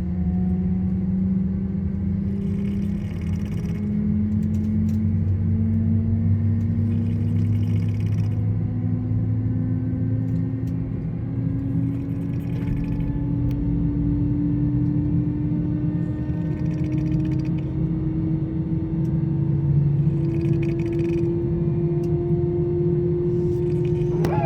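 An engine running with a low steady rumble, its tone climbing slowly and evenly in pitch throughout, as if spooling up.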